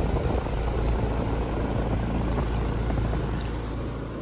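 Outdoor air-conditioning condenser unit running steadily, its fan and compressor going, on a newly fitted dual run capacitor.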